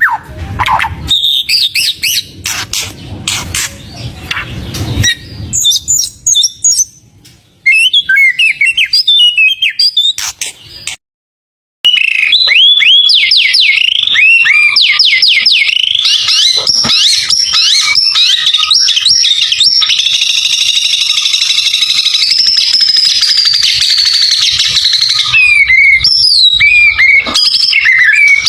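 White-rumped shama singing a loud, varied song of fast whistles, rattles and trills, packed with mimicked phrases, broken once near the middle by a sudden second of silence before the song carries on in a long dense run.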